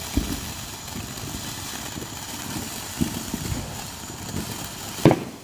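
Consumer fireworks going off: an uneven low rumble of booms, with one sharp, loud bang about five seconds in.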